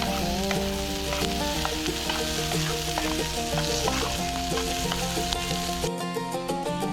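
A steady crackling, sizzling hiss with background music playing over it; the hiss stops suddenly near the end while the music continues.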